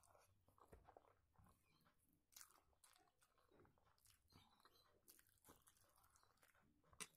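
Faint mouth sounds of eating rice and curry by hand: chewing with small wet smacks and clicks, and a sharper smack near the end.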